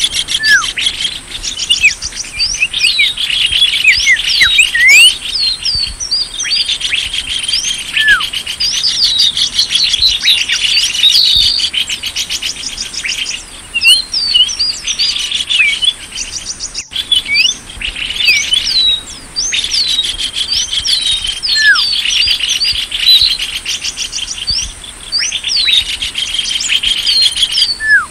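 Small songbirds calling in a busy chorus, used as a lure call for small birds: rapid high trills in stretches of a few seconds, overlapped by many short, sharp whistles that slur down in pitch.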